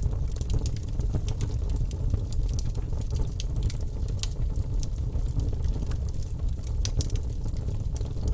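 Wood fire burning in a fireplace: a steady low rumble of flames with frequent irregular crackles and pops of burning wood.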